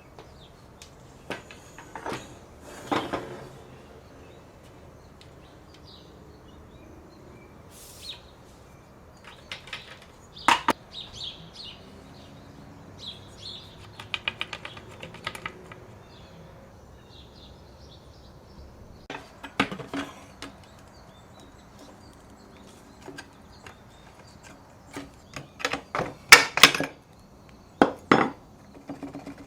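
Metal hand tools and parts being handled: irregular clinks and knocks, with a quick run of rapid ticks in the middle and a denser burst of loud clanks near the end.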